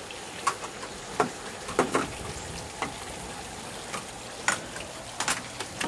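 Steady hiss of rain falling, with a few scattered light clicks and knocks through it.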